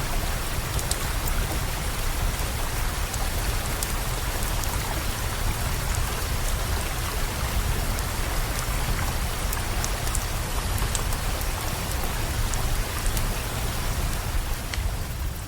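Steady rain with a deep low rumble underneath and scattered sharp crackles from a campfire.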